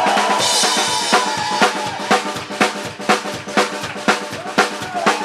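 Live drum kit played after the drummer's introduction: a cymbal crash about half a second in, then a steady beat of bass drum and snare at about two hits a second, with the band holding a few notes underneath.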